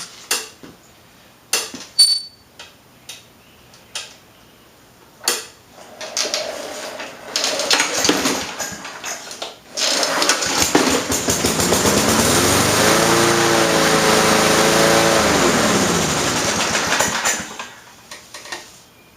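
Small gasoline engine of a piece of lawn equipment being cold-started by pull cord. A few clicks and rough pulls come first, and the engine catches about ten seconds in. It runs, revs up, drops back, and shuts off near the end.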